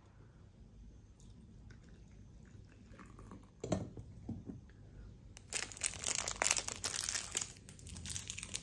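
A couple of light knocks, then the plastic wrapper of a small Haribo gummy-sweets packet being torn open and crinkled in the hands, a dense crackling that starts about five seconds in and runs for about three seconds.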